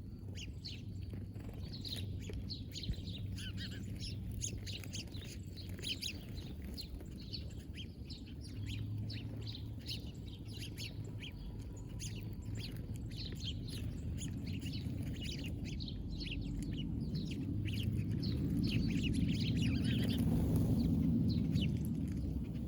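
Many small birds chirping, short quick notes in a dense, continuous chorus. Under them runs a low steady rumble that swells louder for a few seconds near the end.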